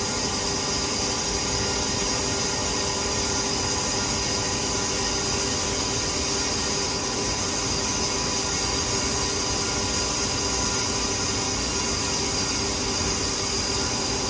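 Grain-handling equipment running steadily as shelled corn is loaded into a truck: a constant loud hiss with several steady hum tones, unchanging throughout.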